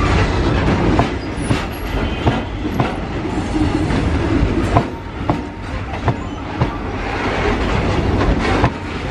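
A freight train of BCN covered bogie wagons rolling past close by: a continuous rumble of wheels on rail, broken by irregular sharp clicks and clanks as the wheels run over rail joints.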